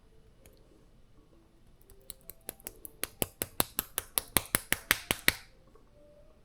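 A rapid run of sharp clicks, about five or six a second. It starts faint about two seconds in, grows louder for about three seconds, then stops abruptly.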